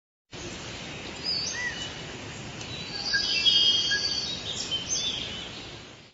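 Several birds chirping and trilling over a steady outdoor background hiss. The calls are busiest a little past the middle, and the sound fades out near the end.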